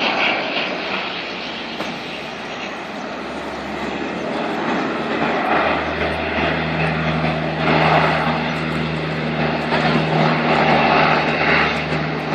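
Propeller engines of a firefighting water-bomber plane droning with a steady low hum. The hum grows louder partway through.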